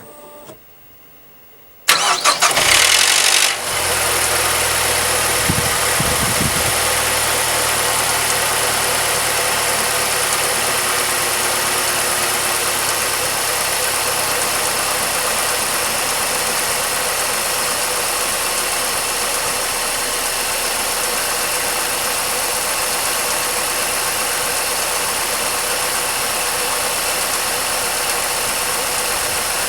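Mazda 6 MPS's 2.3-litre turbocharged direct-injection four-cylinder starting about two seconds in, with a loud diesel-like clatter for a second or two that dies away as oil pressure builds, then idling steadily. The owner wonders whether the clatter is the variable valve timing (VVT) unit or just the normal startup noise of these engines.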